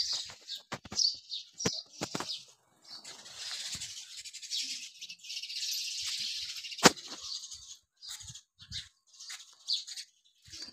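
Small birds chirping over and over in short high calls, thickening into dense twittering for a few seconds in the middle. Several sharp clicks, the loudest about seven seconds in.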